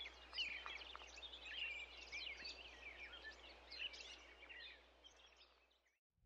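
Faint birdsong: many quick, overlapping chirps over a low steady hum, fading out near the end.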